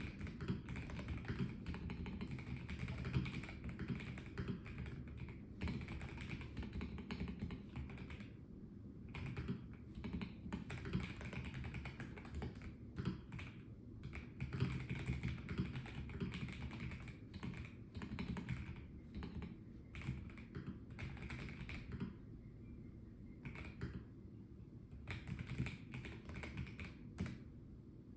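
Typing on a Melgeek Mojo84 plastic-case mechanical keyboard: quick runs of key clicks with short pauses, thinning out near the end.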